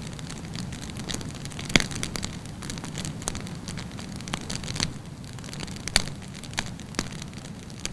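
Wood campfire burning with a steady low rumble and irregular sharp crackles and pops, the loudest about two seconds in and again about six seconds in.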